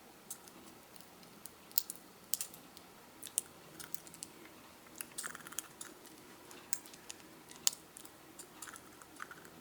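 Faint, scattered small sharp clicks and crunches from a budgie's beak, about one or two a second with a short cluster about five seconds in.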